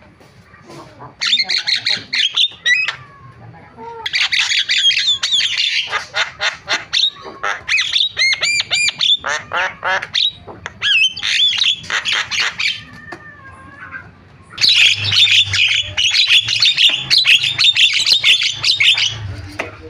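Javan myna singing: bursts of rapid, varied chattering and squawking notes broken by short pauses. A run of repeated rising whistles comes near the middle, and a long dense burst comes near the end.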